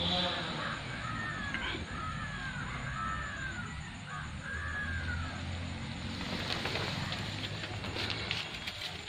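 A bird calling: a run of about six repeated calls over the first five seconds, over a low steady hum.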